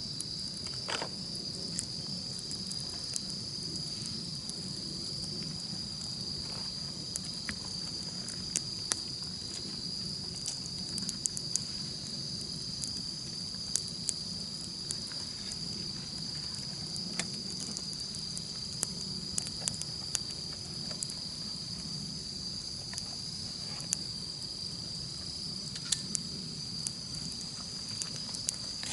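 A steady, high-pitched insect chorus of crickets, with a wood campfire crackling underneath: scattered sharp pops and a low steady burning sound.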